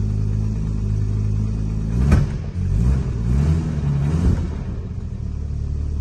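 1963 Jaguar Mk II 2.4's XK straight-six engine idling, then blipped a few times in quick succession about two seconds in, the revs rising and falling, before it settles back to a steady idle.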